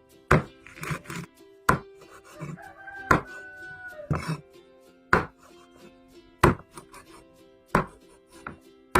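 Knife chopping on a cutting board in single, sharp strokes about every second and a quarter, over background music.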